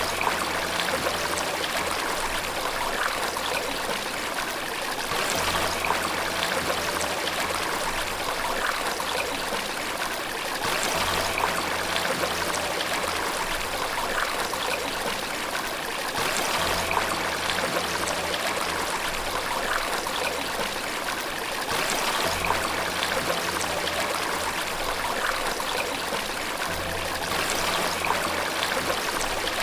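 Flowing water running steadily, swelling a little about every five to six seconds.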